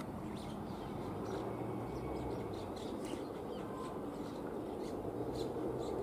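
Small birds chirping in short, high calls scattered through, over a steady low rumble of outdoor background noise.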